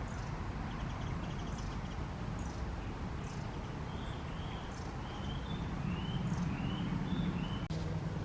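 Wild birds calling: a string of short, high, falling notes, and from about four seconds in a run of short arched whistled notes, over a steady low rumble.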